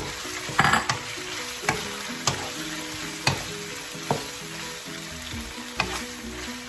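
Pork and shrimp sizzling in hot oil in a pan while being stirred, with a utensil clacking against the pan several times.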